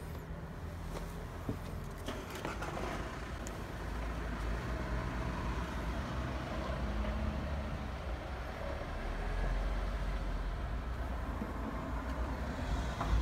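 SsangYong car engine idling steadily, turning the power steering pump to circulate fluid through the system during a power steering fluid flush. A few light knocks come in the first couple of seconds.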